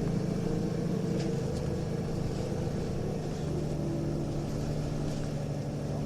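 Interior running sound of a Nissan Diesel UA city bus with a ZF Ecomat four-speed automatic: a steady diesel engine drone under way, its pitch shifting slightly about halfway through. The recordist classes this bus as an abnormal-sounding unit whose tone has drifted from the normal UA272 sound, with upshifts held to high revs, a trait he links to possible torque-converter slip.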